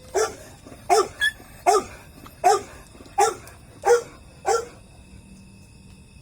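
Pomeranian barking: about eight short, sharp, high barks, roughly one every three-quarters of a second, stopping about five seconds in.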